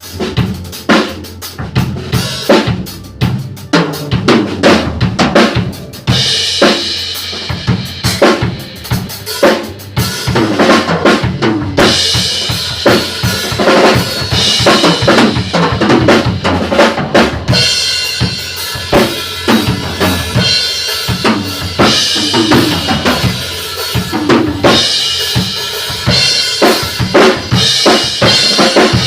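A drum kit played in continuous grooves, with bass drum and snare hits. Cymbals come in about six seconds in and keep returning in stretches. This is a soundcheck while the kit's sound is being adjusted.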